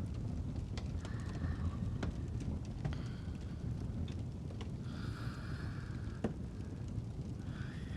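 Fireplace crackling over a steady low rumble, with a handful of sharp pops, the loudest about six seconds in. Soft, slow breathing swells in and out every few seconds, about three breaths.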